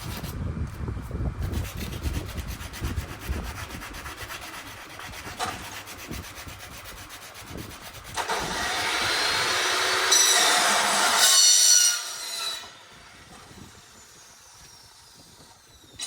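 A handheld power cutting tool runs at full speed for about four seconds in the middle, a harsh scraping with a high whine over it, then stops. Before that there is quieter scraping and rubbing.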